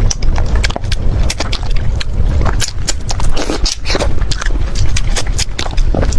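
Close-miked chewing of chicken heads, with many short, sharp crunches and cracks as the small bones are bitten through.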